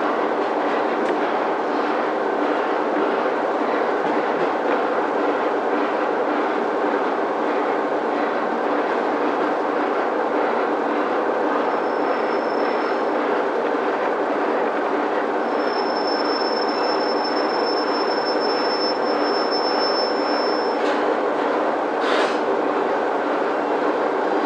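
Diesel railcar heard from inside, running with a steady engine and track rumble and wheels clicking over the rail joints. About halfway through a high, steady brake squeal starts as it slows, and a couple of sharp knocks come near the end as it comes to a stop at a station.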